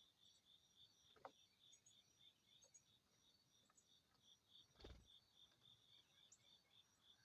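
Faint cricket chirping, an even high pulse about three times a second, with two soft knocks, one about a second in and a louder one near the middle.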